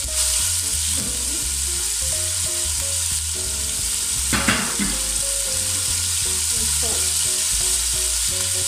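Chicken pieces sizzling steadily as they fry in hot oil in a non-stick pot, with a brief clatter about four and a half seconds in.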